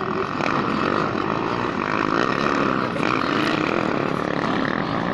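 Motorcycle engines running steadily at a winter motorcycle race.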